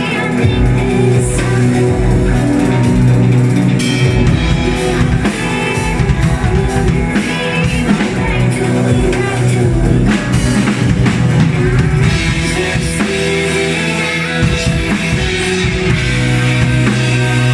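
Rock band playing live, with a loud drum kit and distorted electric guitar.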